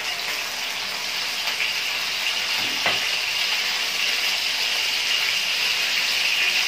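Beef-mince chapli kabab sizzling in hot oil on a tawa, freshly turned over: a steady frying hiss that grows slightly louder, with one short click about three seconds in.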